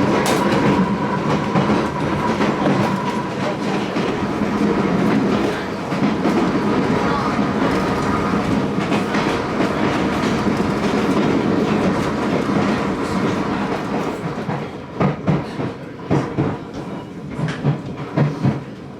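Island Line Class 484 electric train running along the track with a steady rumble. In the last few seconds comes a run of uneven clacks as the wheels cross rail joints.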